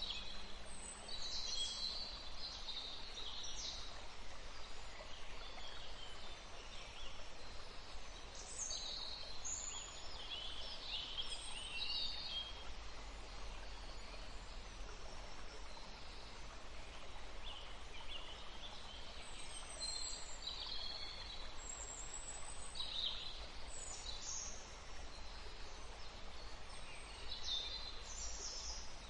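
Songbirds calling and singing in short, scattered chirps over the steady rush of a forest stream.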